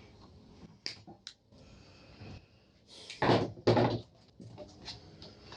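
Two light clicks, then two loud knocks about half a second apart, from hands working on the microwave oven's internals.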